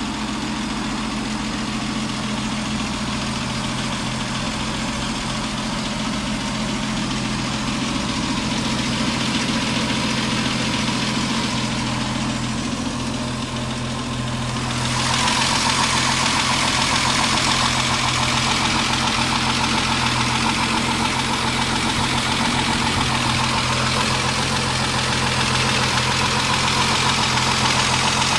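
Triumph Vitesse 2.0-litre straight-six idling steadily. It grows louder and brighter about halfway through.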